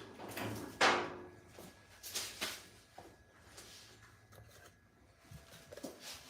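A few knocks and scrapes of parts being handled during a dryer repair. The loudest comes about a second in, two more follow about two seconds in, and smaller ones come near the end.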